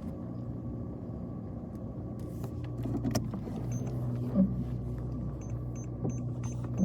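Car driving: a steady low engine and road hum with scattered small knocks and one louder thump about four seconds in. Near the end a quick run of short high ticks starts, about three a second.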